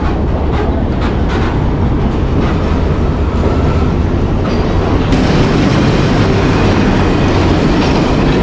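Passenger train rolling alongside a station platform: a loud, steady rumble of wheels on the rails, a little louder and hissier from about five seconds in.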